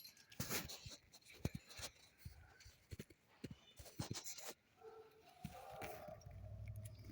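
A dog moving about, making faint, scattered clicks and scuffs. A low steady hum comes in near the end.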